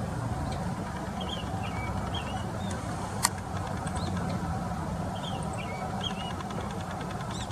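Japanese grosbeak singing short, fluty whistled phrases with gliding notes over a steady low background rumble. There is one sharp click about three seconds in.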